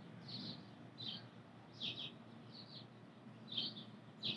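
A bird chirping: short, high notes, often in quick pairs, repeating about once or twice a second over faint outdoor background noise.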